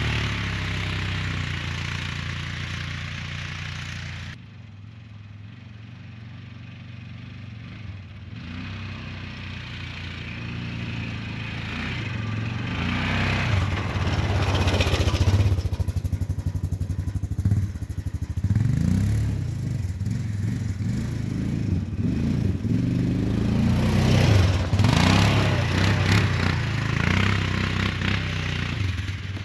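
An engine running, its speed rising and falling repeatedly, with a quieter stretch of a few seconds about four seconds in.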